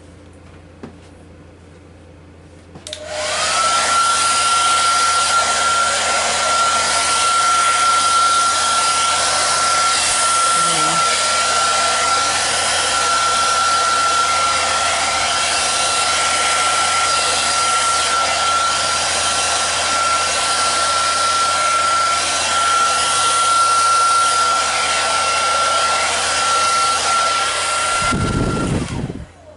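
Hair dryer switched on about three seconds in: its whine rises quickly to one steady high tone over a rush of air. It runs steadily, is switched off near the end, and the whine falls away.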